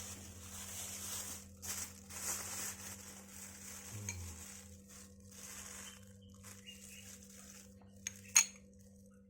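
A spoon scraping and clinking against a dish while pudding is eaten from it, with one sharp clink near the end.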